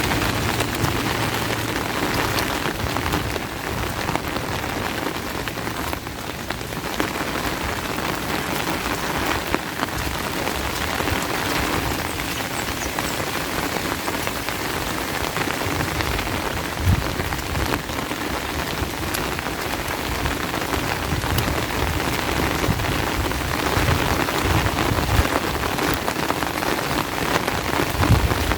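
Steady rain falling, with scattered close drops tapping and a brief low thump a little past halfway.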